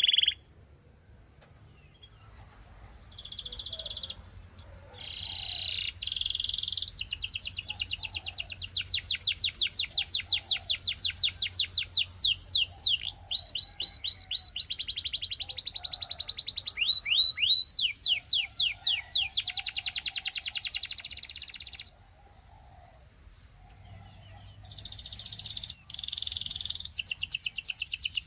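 Russian singing canary singing long, fast rolling trills of rapidly repeated high notes, changing from one trill to the next. The song drops to a faint thin whistle about a second in and again near the end before the trills start again.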